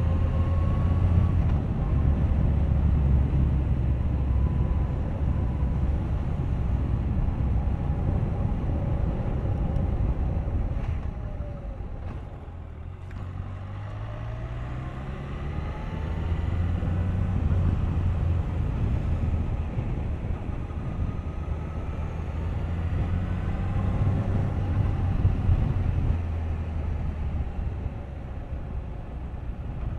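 Suzuki GSX1250FA's inline-four engine running under way, with wind rush over the bike. About twelve seconds in it eases off and goes quieter, then the engine note rises as the bike accelerates again.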